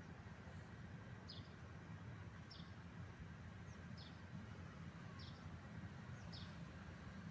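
A small bird chirping faintly and repeatedly, short falling notes a little over a second apart, over a steady low background hum.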